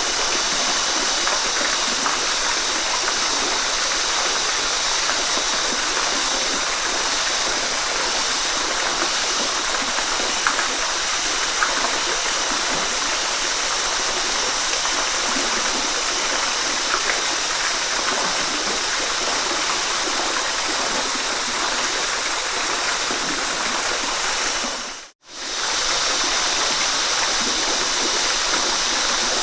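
Waterfall rushing steadily, a dense hiss of falling water that is stronger in the highs than the lows. A few seconds before the end it fades out to silence for a moment and fades straight back in.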